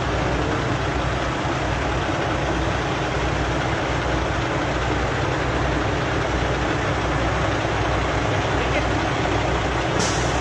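Vehicle engine idling steadily, a constant low rumble with no change in speed.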